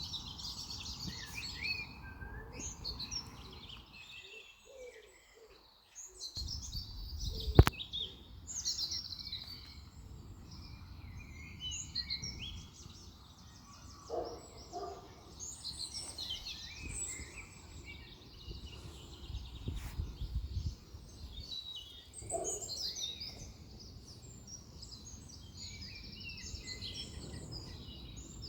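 Wild birds singing and chirping repeatedly, with a low rumble of wind underneath. One sharp click cuts through about seven and a half seconds in.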